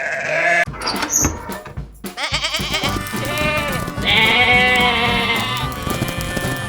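Bleating, with one long, quavering call in the second half, over background music.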